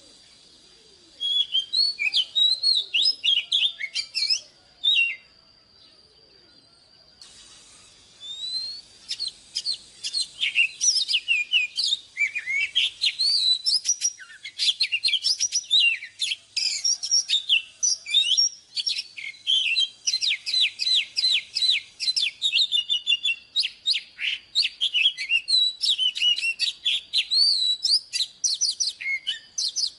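Oriental magpie-robin singing a fast, varied song of high whistles, chirps and sliding notes. It breaks off for about two seconds around five seconds in, then sings on without a pause.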